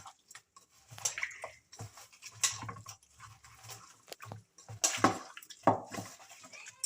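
Raw chicken being mixed with a wet marinade of spice powders, ginger-garlic paste and lemon juice: irregular squelching and slapping strokes in a bowl, over a faint steady low hum.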